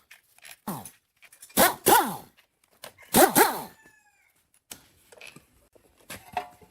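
A dog barking: about four sharp barks, two of them in a quick pair, followed by fainter whining near the end.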